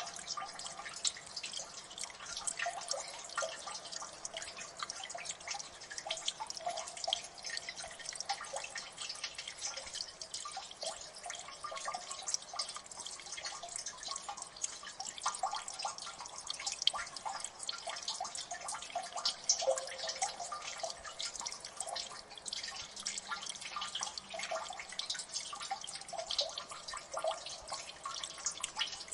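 Many water drips falling into a gully, plinking irregularly and close together, some with a short pitched ring, over a light hiss of running water.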